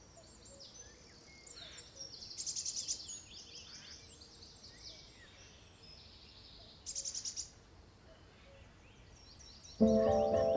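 Several songbirds singing together in high chirps and trills, with two loud, rapid trills about two and a half and seven seconds in. Soft music with sustained notes comes in near the end.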